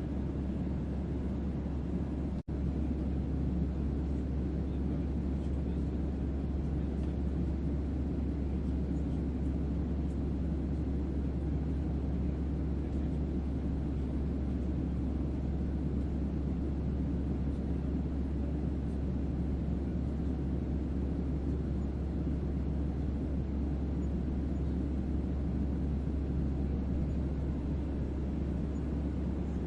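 Steady spaceship-interior ambience: a deep bass hum under an even rumbling noise, with one momentary dropout about two and a half seconds in.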